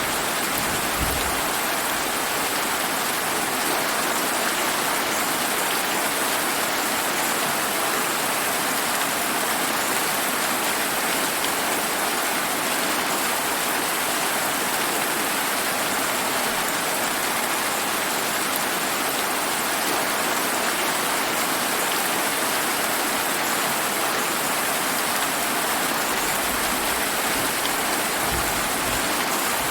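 Steady summer rain falling and pattering on surfaces, a dense even hiss of drops.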